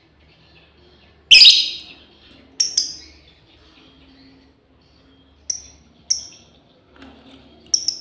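Lovebird giving short, shrill, high calls, about seven of them in irregular ones and pairs, the first the loudest. These are the calls a female lovebird uses to call its flock mates.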